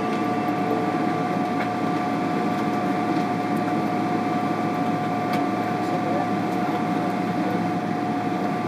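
Steady airliner cabin noise inside a Boeing 777-300ER: a dense low hum with a steady high whine running under it, from the engines and air conditioning, with no change in power.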